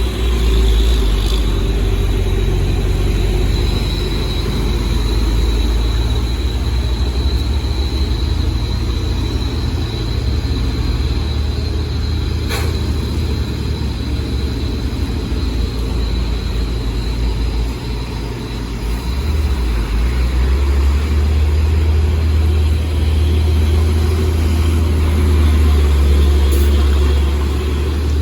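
Heavy trucks' engines running with a deep, loud rumble that grows louder about twenty seconds in, with a faint high whine over the first half and a single click near the middle.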